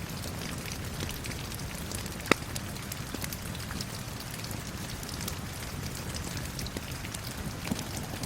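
Steady rain falling, mixed with a wood fire crackling in a fireplace: a dense scatter of small crackles and one loud sharp pop about two seconds in.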